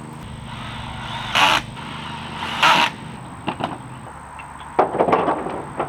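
Two short scraping bursts, then a quick run of knocks and rattles, as wooden shelf parts are handled and fitted together, over a steady low hum.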